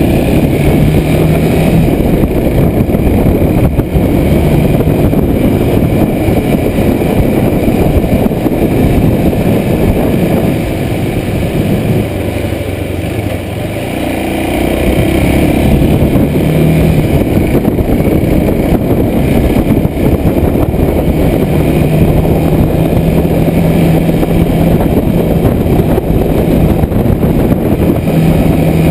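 Kawasaki Super Sherpa 250 single-cylinder motorcycle engine running while riding, mixed with heavy wind rush on a chest-mounted camera microphone. The engine eases off for a few seconds about halfway through, then pulls again.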